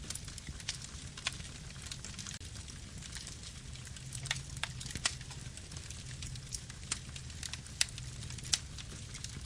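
Campfire burning: a steady low rumble of flames with irregular sharp crackles and pops of burning wood, a few louder pops near the end.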